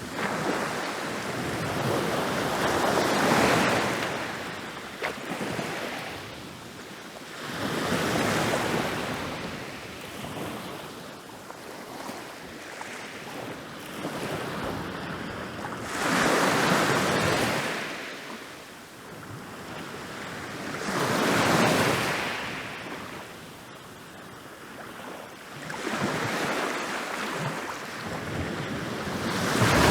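Ocean waves rolling in and breaking on a beach. Each wave swells into a rush of surf and then washes out, about one every four to five seconds.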